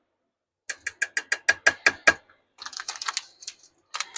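A run of sharp ratchet-like mechanical clicks, about six a second for over a second, followed by a quicker, softer run of clicks.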